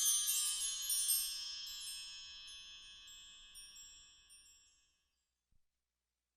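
A cluster of shimmering chime tones ringing and slowly dying away, fading to silence about five seconds in.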